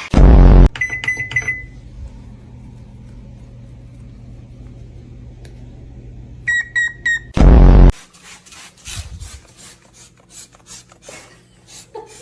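Microwave oven beeping three times, then running with a steady low hum for about six seconds, then beeping three times again. A very loud short burst comes at the very start and another just after the second set of beeps, followed by scattered light clicks and taps.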